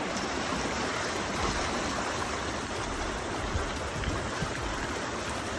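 Swollen, flooding creek: fast floodwater rushing steadily.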